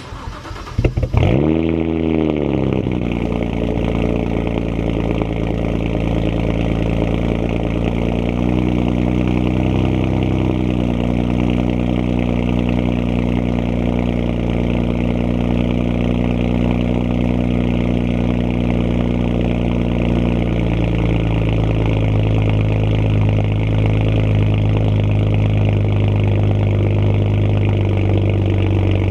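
2009 BMW 135i's twin-turbo N54 inline-six starting: a brief crank, then it catches with a rev flare that rises and falls about a second in. It then idles steadily, the idle settling lower about twenty seconds in.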